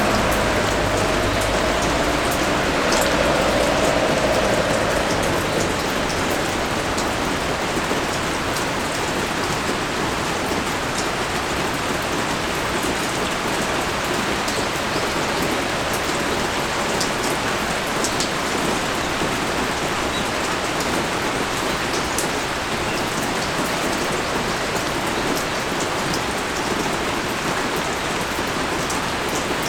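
Heavy rain pouring steadily onto surfaces, an even hiss with occasional sharper drips. A low drone fades out over the first five seconds.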